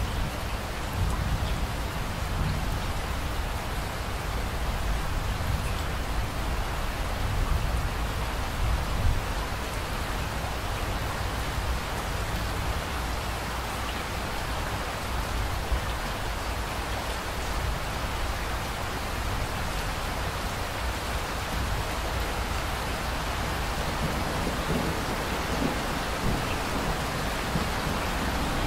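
Steady heavy rain pouring, with a low rumble of thunder underneath that swells near the end.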